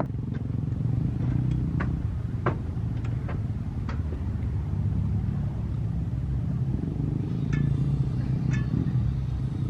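A motor vehicle's engine running steadily as a low drone, with a few faint clicks over it.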